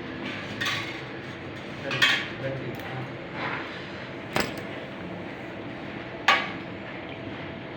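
Metal surgical instruments clinking: four sharp clinks a second or two apart over a steady background hum.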